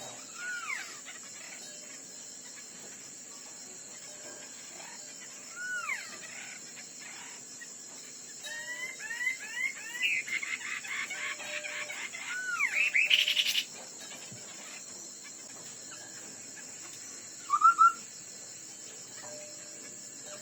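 A streak-breasted scimitar babbler (họa mi đất) singing in challenge song: scattered short, arched whistled notes, then a dense, louder run of rapid whistles near the middle that stops abruptly, and one more short phrase later. A steady high insect trill runs underneath.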